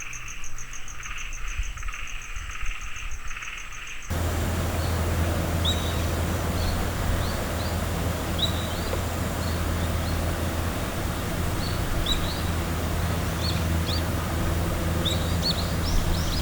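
Insects trill with a fast, even pulse for about four seconds. Then the sound cuts suddenly to a louder field recording: a steady low hum, with a small bird's short, rising chirps repeated about once a second, coming more often near the end.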